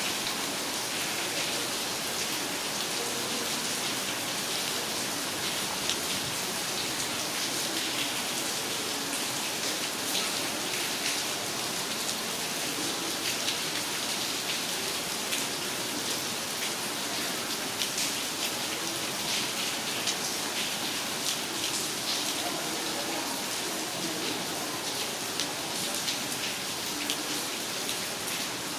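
Steady heavy rain falling, with many individual drops ticking and pattering on hard surfaces close by.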